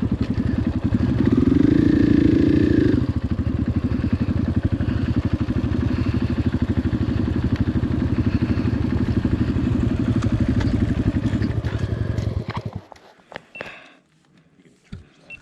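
Dirt bike's single-cylinder engine running close by, its firing pulses rapid and even. It revs up about a second in, settles back after about three seconds, and cuts off suddenly about thirteen seconds in, leaving a few faint clicks and knocks.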